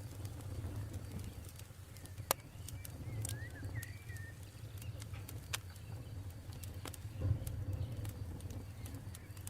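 Campfire crackling with scattered sharp pops, the loudest a little over two seconds in, over a steady low rumble. A bird chirps a few times briefly in the middle.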